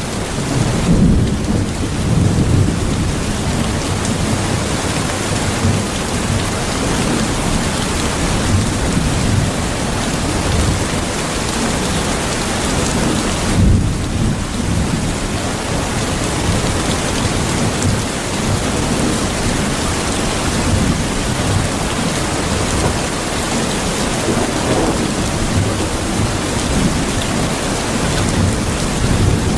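Steady heavy rain with a deep, continuous rumble underneath.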